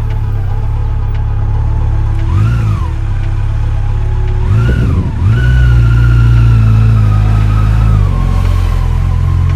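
Yamaha FJR1300 inline-four engine running under a rider. The revs rise and fall quickly twice. The engine then pulls at higher revs for a few seconds before the pitch steps down near the end, like a gear change.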